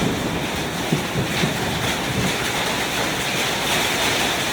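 Hailstorm: heavy rain and hail pelting down in a steady, loud hiss.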